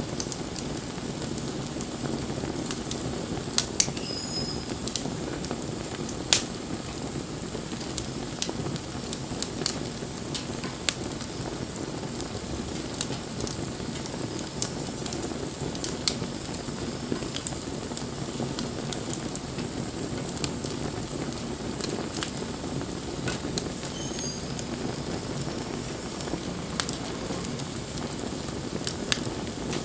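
Wood campfire burning steadily, with a constant low rush and irregular crackles and pops from the burning wood. A few pops stand out louder, about four and six seconds in.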